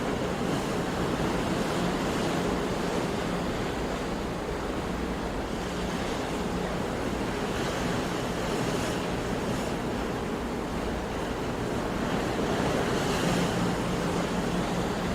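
Sea waves washing ashore in a continuous steady wash, swelling gently in loudness a couple of times.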